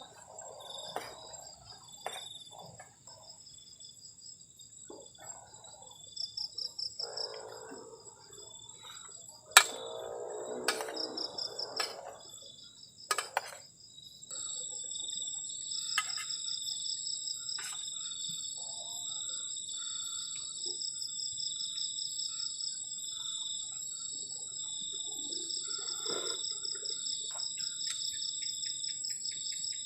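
Crickets chirping in steady, fast-pulsing trills at several different pitches, which overlap. In the first half there are a few sharp clicks and brief rustling noises.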